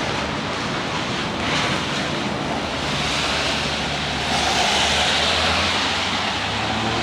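Rain falling on an umbrella and the wet street around it, a steady hiss that grows louder about four seconds in.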